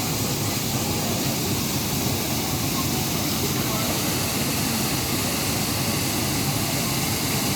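Steady, unbroken rush of falling water from a waterfall swollen by rain.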